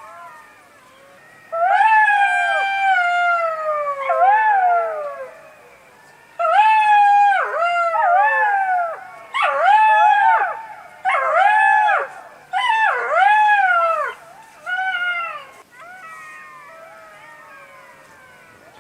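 A pack of jackals howling in chorus: several overlapping wailing calls that slide up and down in pitch. The loud calls start about a second and a half in and break into shorter rising-and-falling cries. Fainter calls are heard near the start and the end.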